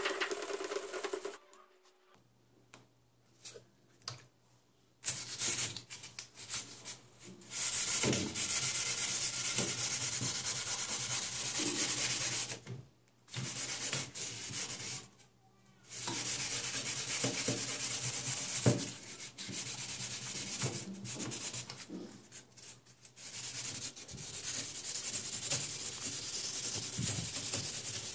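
Sandpaper rubbing back and forth over a car grille as it is sanded down for restoration. The strokes are steady scraping, with a pause of a few seconds near the start and two short breaks later on.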